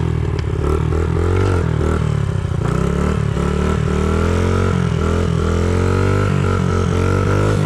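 Small 50cc dirt bike's single-cylinder engine running hard up a hill, its pitch dropping and picking up again several times as the throttle is worked, then climbing gradually toward the end.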